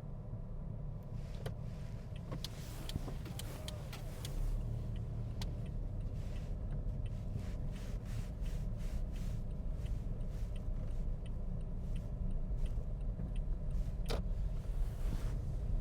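Steady low rumble of a car on the road, with a few scattered clicks and ticks.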